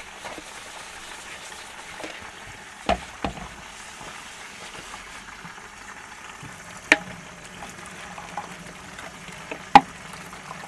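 Chicken pieces frying in oil in a pan, a steady sizzle. Four sharp knocks of dishes being handled at the sink cut through it, the loudest two in the second half.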